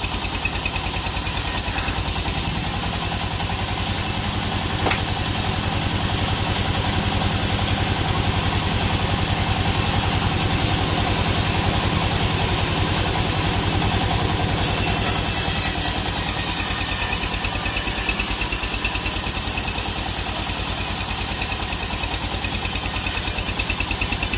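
A sawmill's engine running steadily, with a fast, even pulse.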